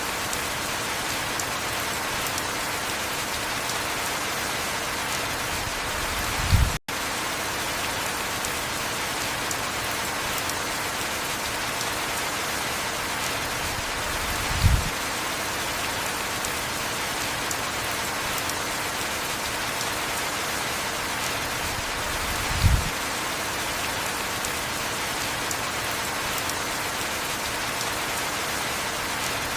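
Steady heavy rain, an even hiss of rainfall. A short low thud comes about every eight seconds, three times in all. Just after the first thud, about seven seconds in, the sound cuts out for an instant.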